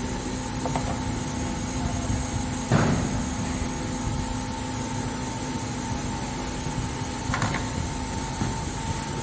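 Maytech 65162 waterproof brushless motor running with no load, a steady electric hum with a constant whine. A sharp knock comes about three seconds in and a fainter one near the end.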